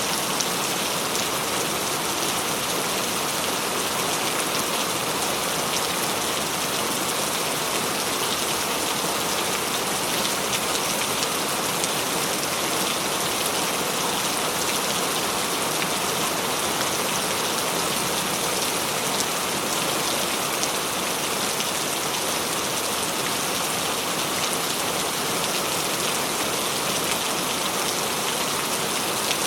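Steady rain falling, an even hiss of drops with many small patters on a surface and no let-up.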